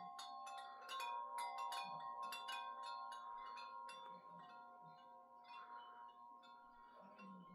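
Wind chimes jangling in gusty wind: irregular strikes, each leaving several tones ringing on and overlapping. The strikes come thickest in the first half and thin out a little later.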